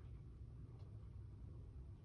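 Near silence: room tone with a steady low rumble and one faint tick a little under a second in.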